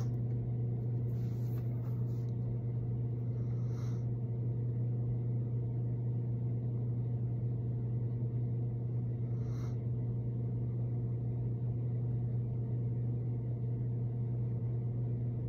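A steady low electrical or mechanical hum at an even level, with a faint brief sound about four seconds in and another near the ten-second mark.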